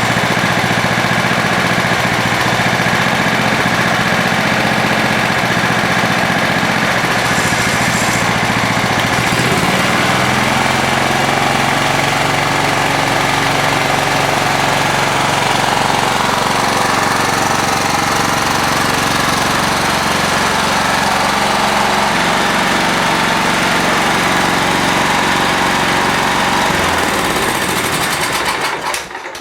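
John Deere L160 riding mower's single-cylinder engine running steadily, its engine speed stepping up slightly about ten seconds in. The knock from its worn connecting rod and crank is much quieted by Lucas Oil Stabilizer mixed into the oil. Near the end the engine sound dies away.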